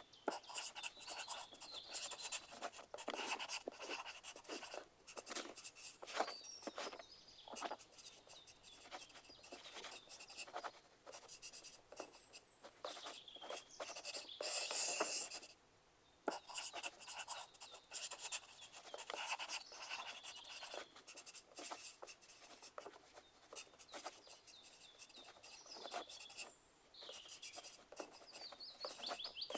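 Pencil writing on paper: quick, irregular scratching strokes and small taps, with a longer stretch of steady scratching about fourteen seconds in.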